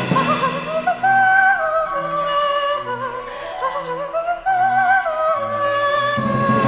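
A high female voice singing a wordless, operatic vocalise with vibrato and quick up-and-down runs, over sustained instrumental accompaniment.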